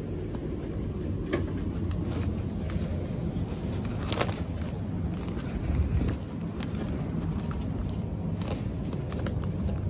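Interior noise of a passenger train carriage: a steady low rumble with scattered short clicks and knocks, a sharper click about four seconds in and a heavier thump near six seconds.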